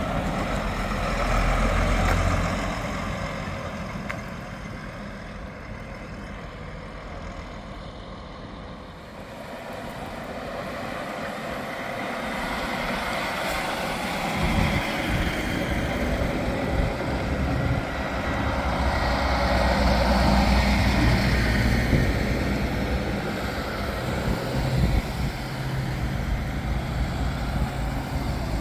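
Heavy trucks' diesel engines passing one after another. The sound swells as a truck goes by about two seconds in, dips, then builds again with another truck's engine running past in the second half.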